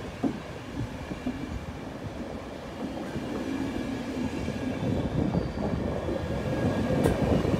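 MÁV-START passenger coaches of a departing EuroCity rolling past on the track, a steady rumble of wheels on rails that grows louder, with a single sharp click near the end.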